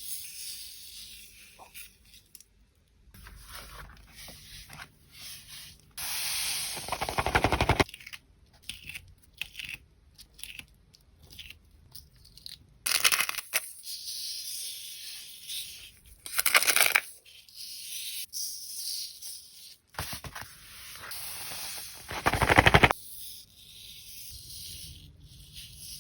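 Coloured sand being poured and worked on a board: irregular gritty hissing and rubbing in bursts, with a few louder rushes spread through.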